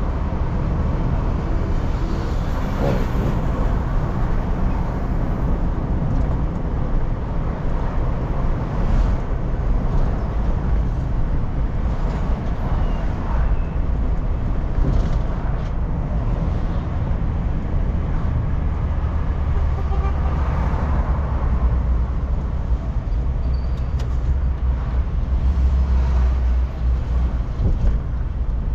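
A car driving, heard from inside the cabin: a steady low engine and road rumble.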